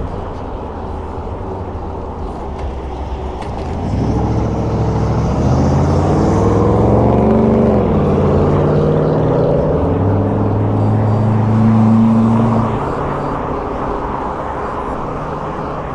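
A motor rising in pitch as it speeds up, dropping back about halfway through, then running steadily until it cuts off near the end, over steady wind and road noise.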